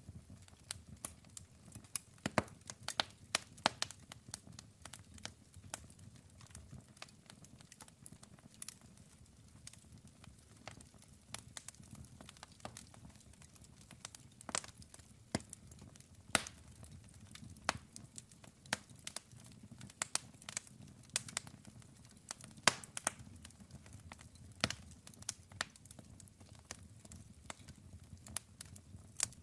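Campfire of burning wood crackling, with irregular sharp pops and snaps, a few louder ones standing out, over a faint low hiss of the flames.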